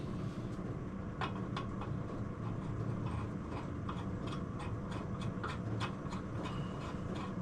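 Irregular small metallic clicks and taps from hand work on engine studs while their threads are cleaned, over a steady low hum.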